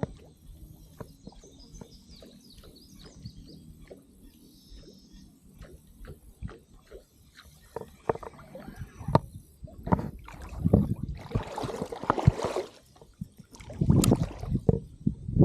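Water sloshing and splashing around a paddle board, with scattered small clicks and knocks that grow louder and busier in the second half. Faint bird chirps are heard early on.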